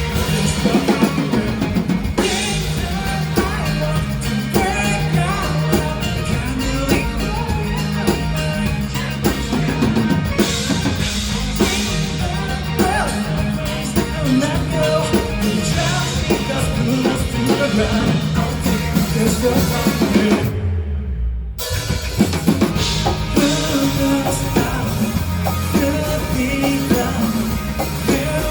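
Live band playing a rock song, with drum kit and bass driving it. About two-thirds of the way through, everything but the low end cuts out for about a second, then the full band comes back in.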